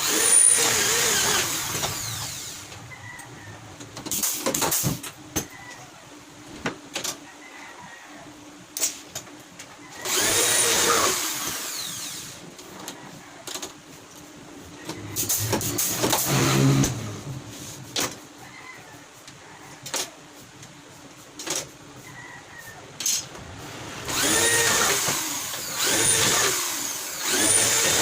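Power drill driving screws into a wooden flight case in several short runs, its pitch rising and falling as the motor loads and unloads. Sharp clicks and knocks of handling come between the runs.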